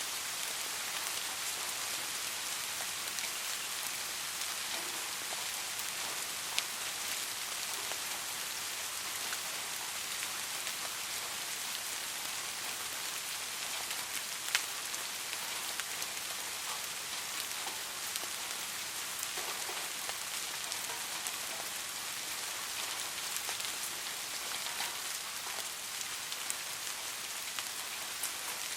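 Steady rain falling: an even hiss with many fine drop ticks, and a couple of louder single drops standing out about six and fourteen seconds in.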